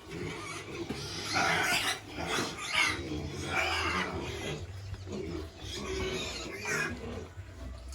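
Pigs grunting and squealing in a pen: a run of short, harsh calls, roughly one a second.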